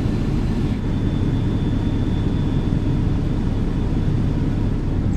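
Steady low rumble of a passenger ferry's engines, heard on board, with a faint high whine for a couple of seconds.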